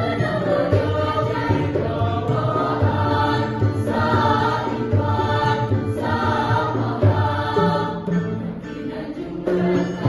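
Mixed choir of boys and girls singing a Sundanese kawih in several voice parts, growing briefly quieter about eight seconds in before picking up again.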